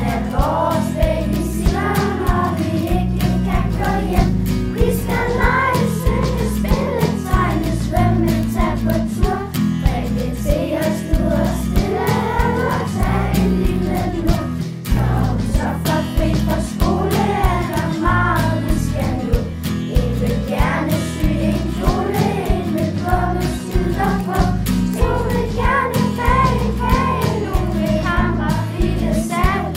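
A group of children singing a song together over a backing track with a steady beat and bass line.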